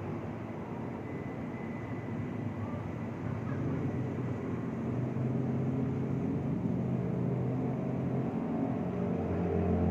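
Steady low rumble of distant traffic, with a low humming drone that grows louder in the second half.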